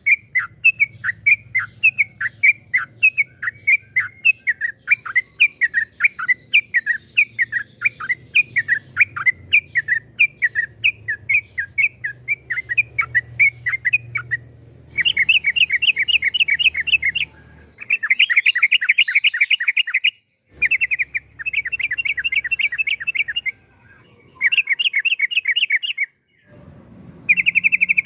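Yellow-vented bulbul (trucukan) singing: a long run of quick, repeated chirps, about three a second, then from about halfway several bursts of fast rolling trill (the long 'ropel' song), each a couple of seconds long with short breaks between that cut off abruptly.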